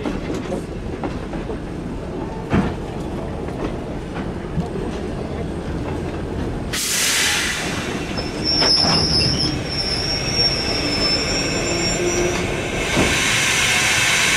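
A slow-moving train: low rumble with a few wheel clicks, then about seven seconds in a sudden loud hiss. A high, steady wheel squeal follows for about four seconds, and near the end another loud hiss starts.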